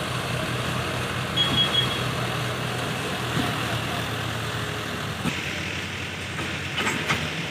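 Tractor diesel engine running steadily at a low, even speed, with a couple of short knocks in the second half.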